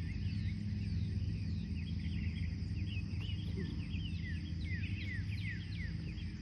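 Early-morning chorus of birds: many short, quick, overlapping chirps, over a steady low hum.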